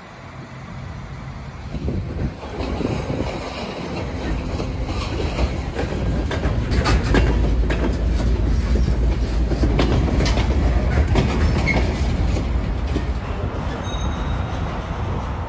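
Freight train of covered hopper cars rolling past, a heavy rumble that builds over the first couple of seconds, with wheels clicking over rail joints. A brief thin wheel squeal comes near the end.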